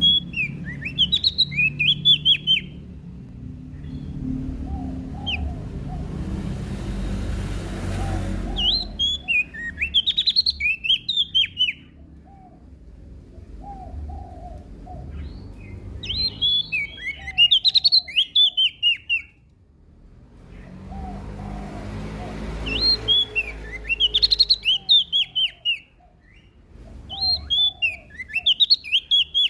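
Prenjak daun song: bursts of rapid, high, down-slurred chirping notes, each burst lasting two to three seconds and repeated about five times, with softer, lower notes in between.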